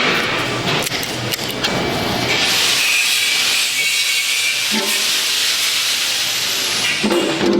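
A loud, steady high hiss that starts about two seconds in and cuts off suddenly near the end, after a stretch of clicking and clattering workshop noise.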